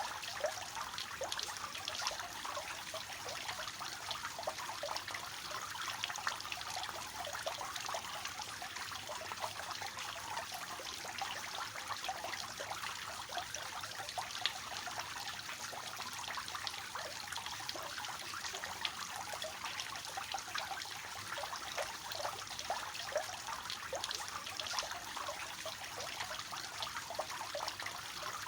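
Water falling from a three-tiered cascading fountain, a steady light splashing and trickling without let-up.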